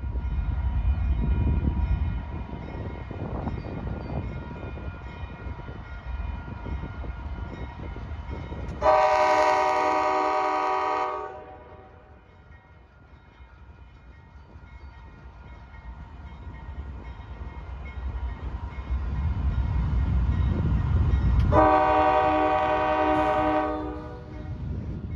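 Diesel locomotives rumbling, with two horn blasts of about two seconds each, each a chord of several notes: the first about nine seconds in, the second near the end. The rumble is loudest at the start and swells again before the second blast.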